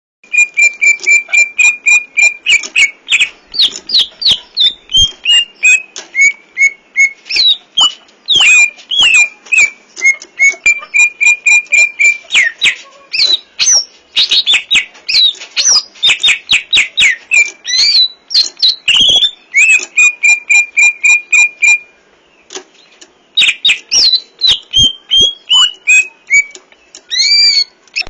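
A green leafbird (cucak ijo) singing a loud, fast, continuous song of sharp repeated notes and sliding whistles, with a steady held note now and then. The song is packed with mimicked phrases (isian). It breaks off briefly about 22 seconds in.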